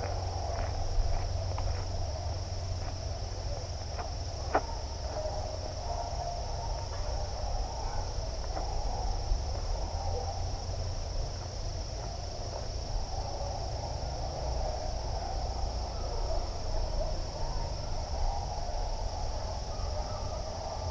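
Outdoor nature ambience led by a steady, high-pitched insect chorus, over a constant low rumble, with a few faint clicks in the first few seconds.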